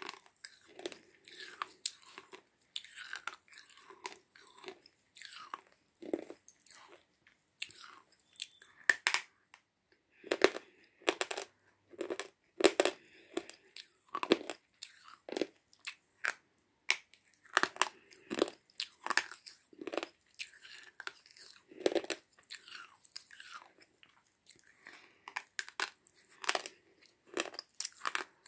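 Slate pencil being bitten and chewed: hard, crunchy bites in an irregular run, about one or two a second, loudest around the middle.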